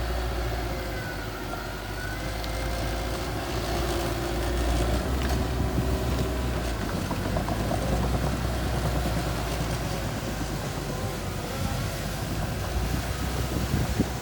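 Mini bulldozer's engine running steadily with a low rumble, getting a little louder about four seconds in.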